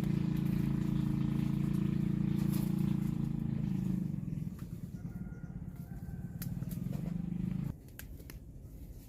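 An engine running steadily with a low hum. It drops in level about four seconds in and cuts off abruptly near the end, leaving a few faint clicks.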